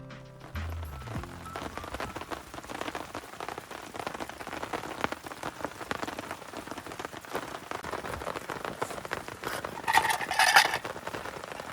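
Heavy rain falling on a tarp, a dense, even patter of close drop hits. A brief louder burst comes near the end.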